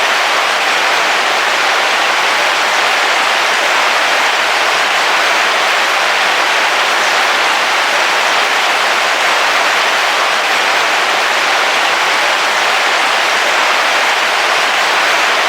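Heavy rain falling steadily on the roof of a camping car, an even, continuous hiss.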